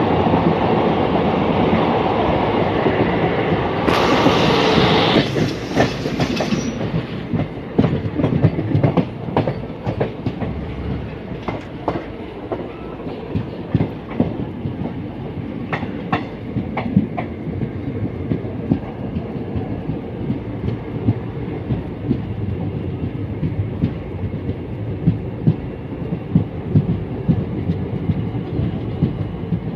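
Passenger train running, heard from inside the carriage by an open window: a steady rumble of the wheels with clickety-clack over the rail joints. A louder rushing noise fills the first six seconds or so, then the sharp clacks stand out, coming more regularly near the end.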